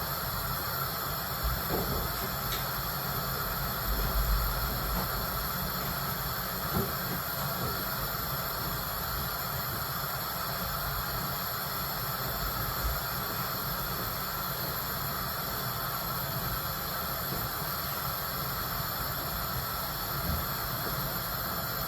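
Steady hiss with a faint hum from the stove as a pot of borsch heats, not yet boiling, with a brief low rumble about four seconds in.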